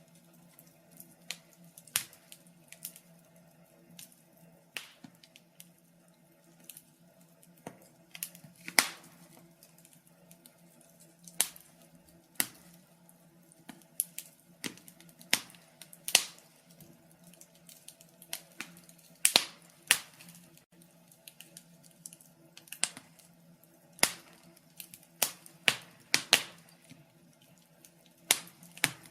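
Wood fire crackling: irregular sharp pops and snaps, a few every second, some much louder than others, over a faint steady low hum.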